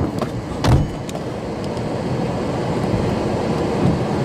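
Steady low rumble of a car heard from inside the cabin, with one sharp knock a little under a second in.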